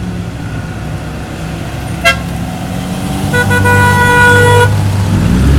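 Vehicle horn honking over a running engine: a short toot about two seconds in, then a steady honk of about a second and a half. The engine starts to rev up near the end.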